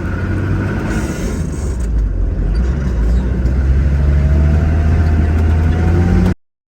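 Vehicle engine running under way, a steady low rumble whose pitch rises slightly from about four seconds in as it picks up speed. The sound cuts off abruptly shortly before the end.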